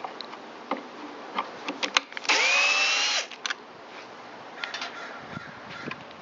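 Cordless drill-driver spinning once for just under a second, its pitch rising as it spins up, backing out a screw from the engine shroud. Light clicks and knocks of tool handling come before and after.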